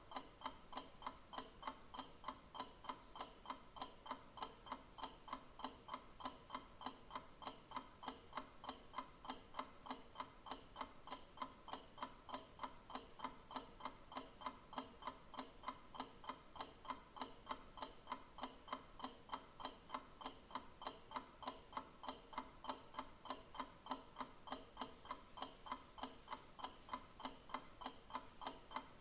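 Clock ticking with quick, evenly spaced, crisp ticks that go on without a break.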